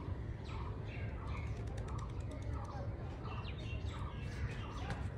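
Birds chirping in short, repeated calls, a few each second, over a steady low outdoor rumble.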